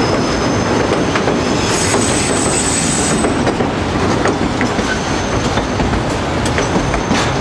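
White Pass & Yukon Route narrow-gauge train heard from aboard, running with a steady rumble of wheels on rail and occasional sharp clicks from the rail joints. Thin, high wheel squeal comes and goes.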